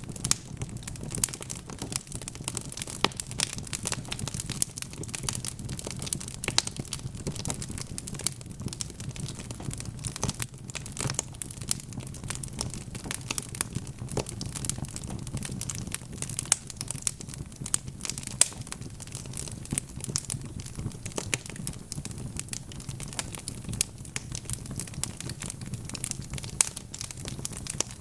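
Wood fire burning in a fireplace: dense, irregular crackling and popping of the logs over a steady low rumble of the flames.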